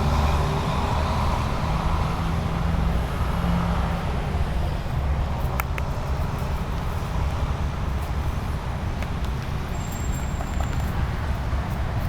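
Steady low outdoor rumble with a faint hum, like distant road traffic, and a couple of small clicks about halfway through.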